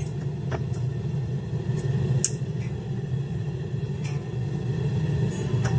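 A forge running with a steady low rumble, with a few faint light clicks.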